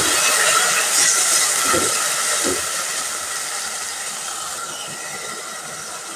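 Chopped tomatoes sizzling as they hit hot oil and frying onions in an aluminium pot. The sizzle is loud at first and dies down steadily over the next few seconds.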